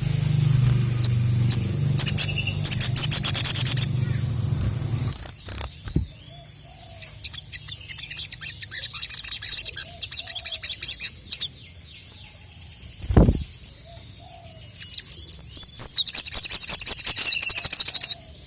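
Sogon (sogok ontong, little spiderhunter) singing in three bursts of rapid, high-pitched chirps. A low hum runs under the first five seconds, and there is a brief low thump near the end.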